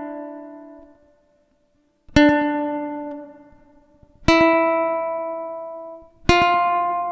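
Ukulele chords, each strummed once and left to ring and fade. A previous chord dies away, a short silence follows, then three chords sound about two seconds apart.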